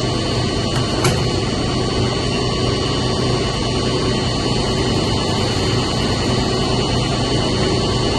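Steady drone of a running pump motor in a chiller plant room: a constant low hum with a thin high whine over it, and a faint click about a second in.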